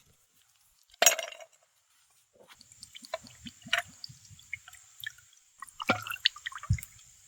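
A single clink of tableware about a second in, then a few seconds of small wet clicks and liquid sounds, busiest near the end.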